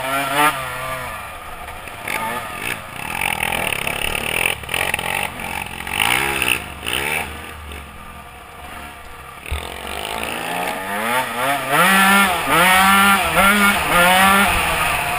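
Small dirt-bike engine running and being revved, its pitch rising and falling; several quick blips of the throttle come close together near the end.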